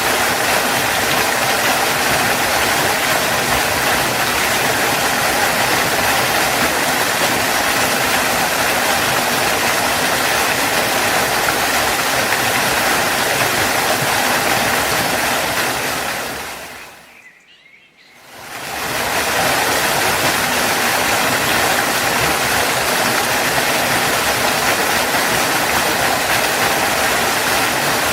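Waterfall rushing in a steady, even roar of falling water. About two-thirds of the way in it fades almost to nothing and swells back up, as one waterfall recording gives way to the next.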